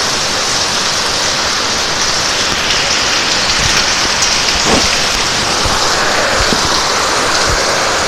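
Heavy typhoon rain pouring down steadily, with a few dull low thuds in the middle.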